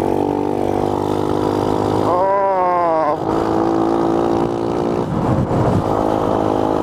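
Small 49cc Honda 50R dirt-bike engine running steadily while riding, with a brief rise and fall in engine pitch about two seconds in.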